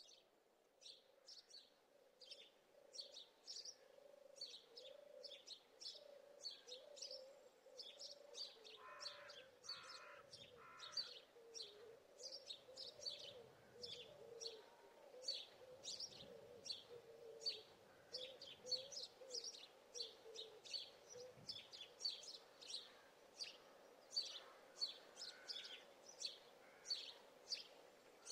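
Faint bird chirping: short, high chirps repeating two or three times a second, over a lower wavering tone that stops about three quarters of the way through.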